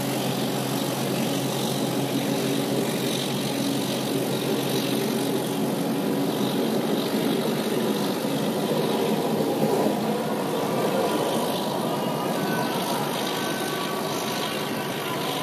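Indonesian KAI passenger train running out past the platform on the far track: a steady rumble of the carriages rolling by, slightly quieter near the end as the last car clears.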